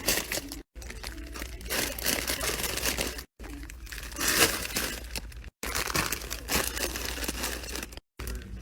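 Packaging crinkling and tearing, as items are unpacked and restocked. The sound comes in short stretches that cut off abruptly every couple of seconds.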